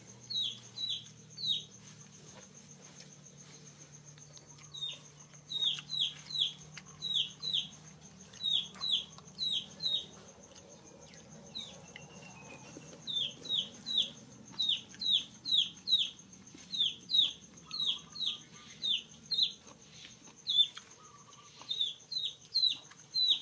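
A bird calling: runs of short, high, falling notes, about three a second, with a few pauses of a couple of seconds between runs.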